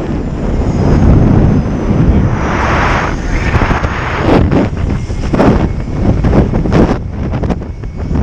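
Wind buffeting a camera microphone in uneven gusts, a loud low rumble with repeated short swells, as air rushes past during a parachute descent.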